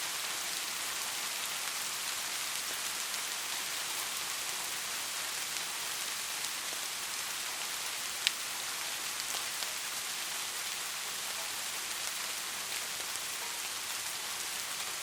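Light rain falling steadily, an even hiss of drops with faint scattered ticks and one sharper tick about eight seconds in.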